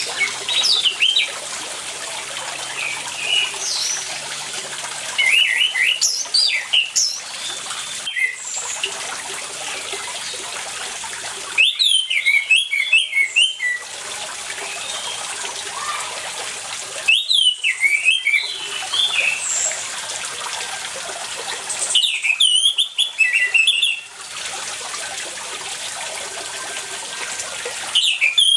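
Orange-headed thrush singing in bursts of quick, varied whistled phrases that come every five or six seconds, over a steady sound of running water.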